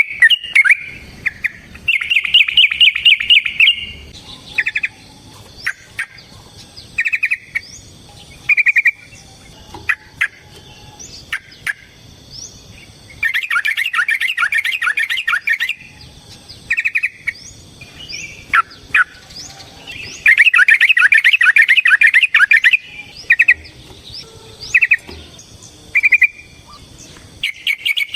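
Yellow-vented bulbul singing: loud, rapid bubbling song runs of about two seconds, three times, with short chirping phrases in between.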